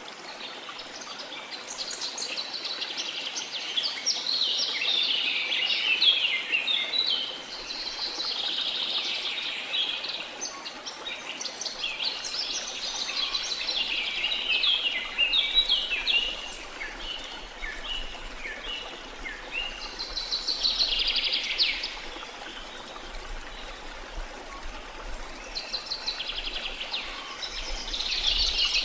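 Many birds chirping and trilling in clusters over a steady hiss of falling water.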